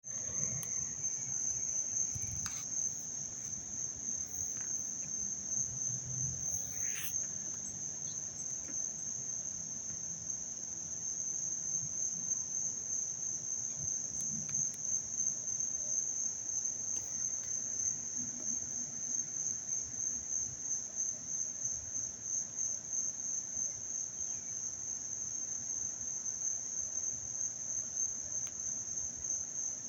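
A steady, high-pitched chorus of trilling insects that never lets up, with a couple of faint clicks about two and seven seconds in.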